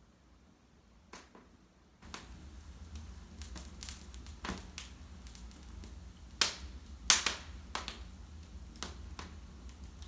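Wood fire in a fireplace crackling, with sharp pops scattered irregularly through it. The low rumble of the flames comes in suddenly about two seconds in, and the loudest pops fall a little past the middle.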